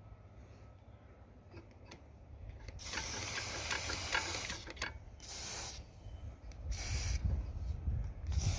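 Short bursts of spray hissing during carburetor cleaning: one long burst of about two seconds, then three shorter ones.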